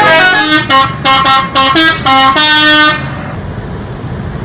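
Multi-tone bus horn playing a short tune of stepped notes for about three seconds, then cutting off to the hum of the vehicle.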